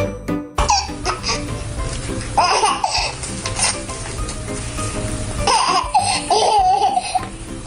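A baby laughing and squealing in short bursts: once about a second in, again near the middle, and a longer stretch near the end.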